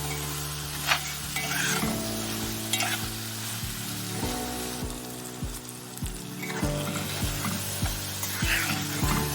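Chicken masala sizzling as it fries in oil in a pan, with intermittent scraping from a spoon stirring it.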